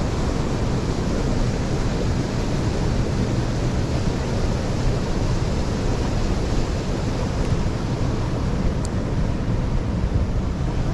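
Steady rushing of mountain stream water, an even noise with no breaks.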